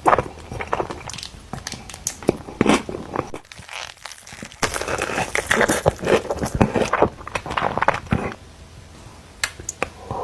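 Close-miked eating of In-N-Out fast food: irregular bites, chewing and crunching, with crinkling of paper wrappers.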